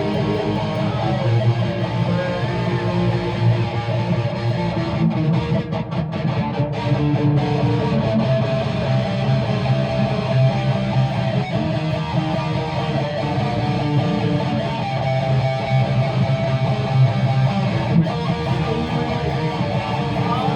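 A guitar being strummed as music, with no singing.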